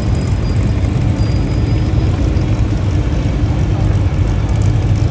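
Deep, steady rumble of a hot rod engine rolling by at low speed.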